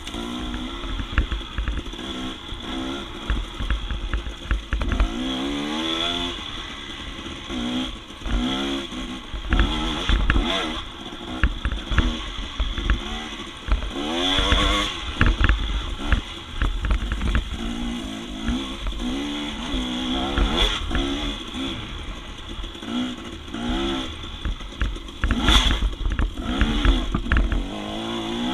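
Dirt bike engine revving up and down over and over under changing throttle, with repeated knocks and clatter of the bike working over rough ground.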